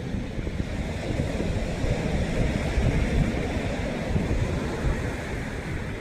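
Sea waves and surf washing steadily, with wind rumbling on the microphone; the wash swells a little midway.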